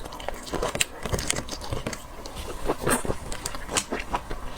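Close-miked eating sounds of shellfish: an irregular run of small clicks, crackles and scrapes as the seafood's shell is pulled apart and bitten.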